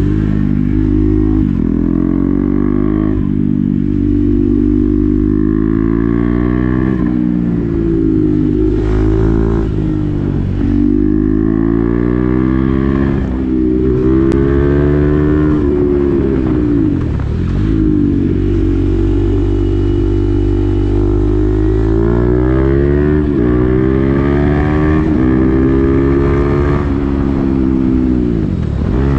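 KTM Duke 390's single-cylinder engine through an SC-Project aftermarket exhaust with the dB-killer fitted, riding: the pitch climbs under acceleration and drops sharply at each gear change or roll-off, several times over.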